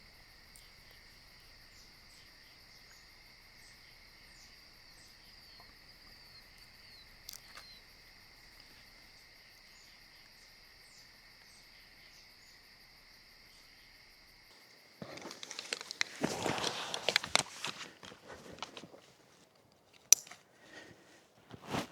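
A steady insect chorus trills at two constant pitches, with a few faint bird chirps. About 15 seconds in it cuts off suddenly, replaced by louder irregular footsteps of a hiker on the trail and a few sharp clicks near the end.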